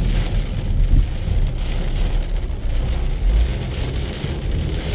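Heavy rain falling on a moving car, heard from inside the cabin, over a steady low rumble of the car on the wet road.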